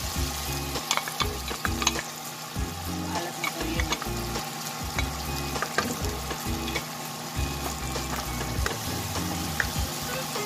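Oil sizzling under a sauté of onion, garlic, tomato, fermented black beans and crumbled tofu in a nonstick wok, stirred and scraped with a wooden spatula that clicks against the pan now and then.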